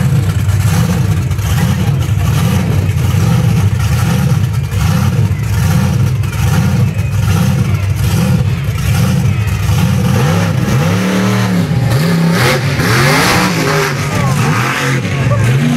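Large truck engine running close by and being revved up and down over and over, its pitch rising and falling about once a second.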